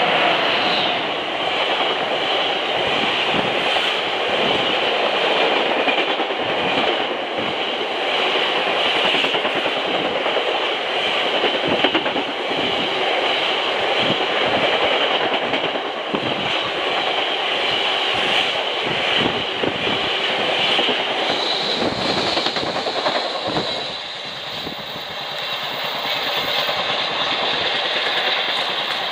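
A freight train of bogie tank wagons behind a Class 60 diesel passing close by at speed: a steady rolling rumble of steel wheels with frequent clicks and clatter over rail joints, easing a little near the end.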